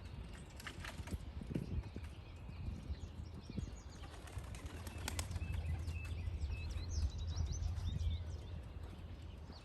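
Young racing pigeons' wings flapping as they fly and land around the loft, with short high bird chirps near the end over a low steady rumble.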